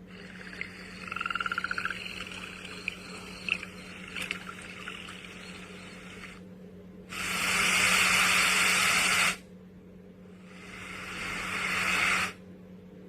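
Built-in sleep sounds from a small MP3 player's speaker, switched one after another. First a quiet nature-type track with a short pulsed call and a few clicks, then about two seconds of loud, even white-noise hiss that starts and stops abruptly, then a swell of noise that rises for about two seconds and cuts off. A steady low hum runs underneath.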